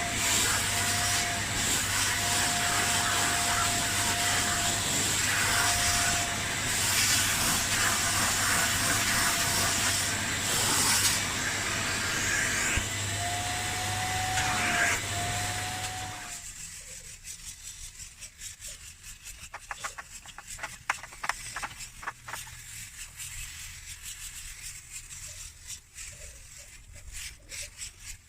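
Kärcher Puzzi 10/1 spray extractor running, a steady suction noise with a slightly wavering whine and a low hum, switched off about sixteen seconds in. After that come quieter, irregular clicks and scraping.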